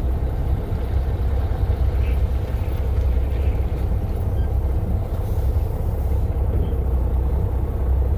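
A vehicle engine running steadily with a deep, even rumble while driving.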